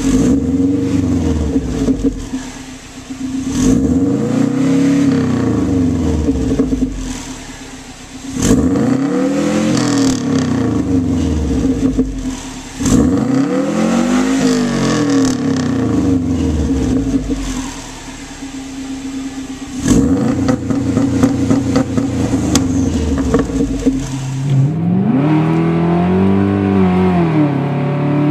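BMW 335i E92's turbocharged straight-six being revved through its exhaust again and again, the engine note climbing and falling back several times.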